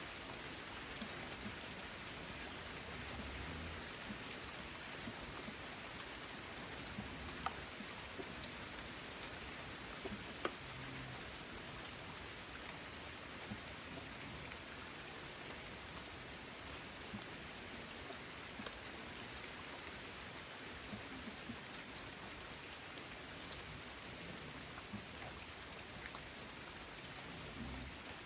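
Steady rain falling on a corrugated metal (zinc) roof, an even hiss with a few louder single drop ticks here and there.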